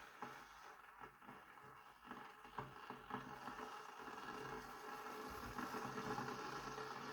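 Electric kettle heating 1.5 litres of water: a faint hiss and rumble from the water as it warms toward the boil, growing louder about five seconds in.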